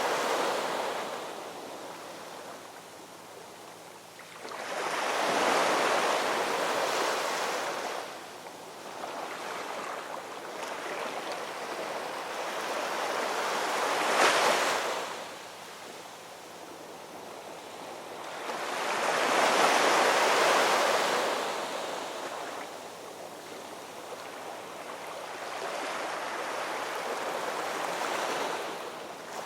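Ocean waves breaking and washing onto shore, a rushing surf that swells and fades in slow surges roughly every six seconds. The sharpest crash comes about halfway through.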